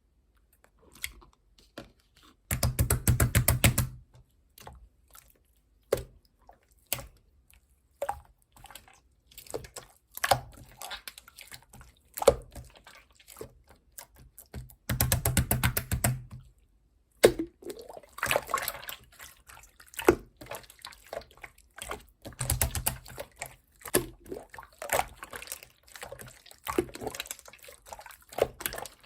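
Clear slime being squished and pressed by hand, making wet clicks and crackles as trapped air pops. Three dense runs of rapid crackling stand out, near the start, in the middle and about two-thirds through.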